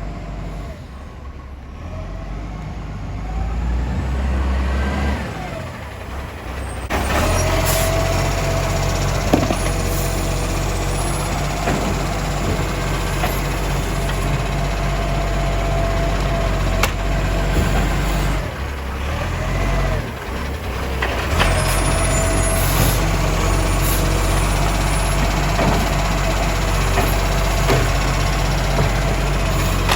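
Euro 5 diesel garbage truck running, its engine coming up loudly about seven seconds in and again after a short dip near twenty seconds, with a few sharp knocks.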